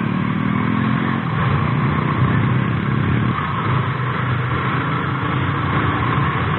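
Motorcycle engine running under way, over a steady rush of wind noise. The engine note climbs a little in the first second and eases off about three seconds in.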